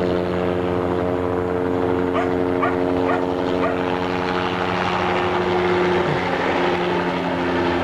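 Helicopter flying low overhead: a steady, loud drone with several held engine and rotor tones. A few short, faint yelps come through about two to four seconds in.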